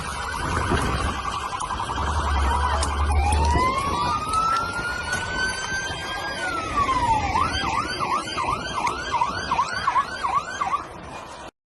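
Emergency vehicle's electronic siren stepping through its tones: a rapid warble, then one long wail rising over about three seconds and falling, then a fast yelp of about three sweeps a second. The sound cuts off abruptly near the end.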